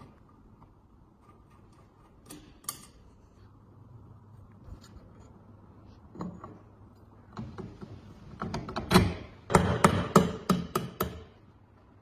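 Metal parts of a rusty tile cutter clicking and knocking as they are handled. A few scattered clicks come first, then a quick run of sharp knocks and clicks in the second half, loudest near the end.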